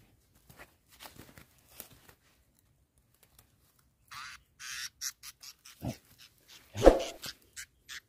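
A small bird caught in a bamboo basket trap giving a run of short, harsh distress squawks, several a second, as it is grabbed by hand, starting about halfway through after faint rustling. A loud knock of handling comes near the end.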